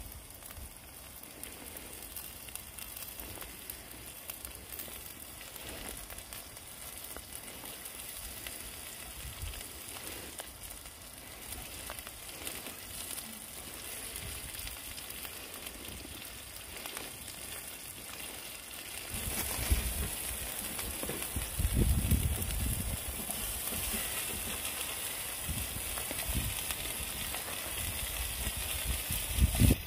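Sliced onions sizzling and frying in a pan over a wood fire, a steady hiss throughout. The sizzle grows louder about two-thirds of the way through, with a few low knocks.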